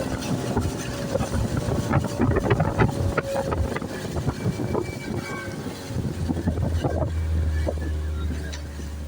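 Speedboat under way: its engine runs steadily under the noise of the ride, with many short irregular knocks throughout. A deeper low hum grows stronger about six seconds in.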